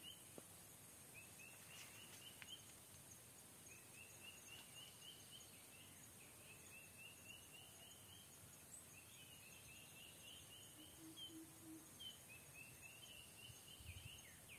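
Faint bird song: short phrases of quick notes, each a little higher than the last, repeated every second or two against a quiet outdoor background.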